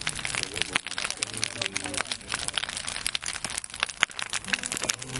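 Large wood bonfire crackling, with dense, irregular pops and snaps.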